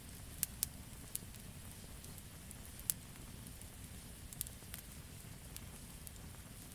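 Wood campfire burning: a steady low rumble of flame with sharp crackles and pops from the burning wood, about six in all, the loudest a little under halfway through.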